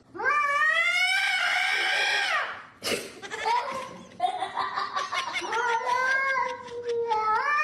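A cat yowling in long, drawn-out calls: one lasting about two seconds, then a longer wavering one starting about four seconds in.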